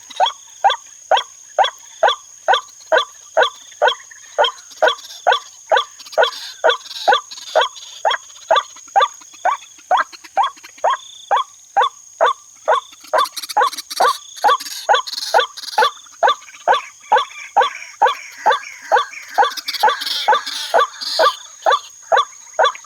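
White-breasted waterhen call played from an MP3 lure to attract waterhens: one short, identical note repeated very evenly about twice a second.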